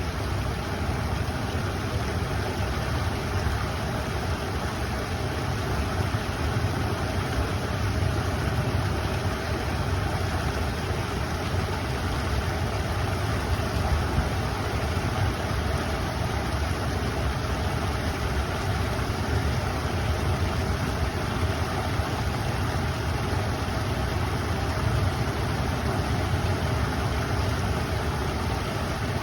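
River water flowing: a steady, unbroken rush with a strong low rumble.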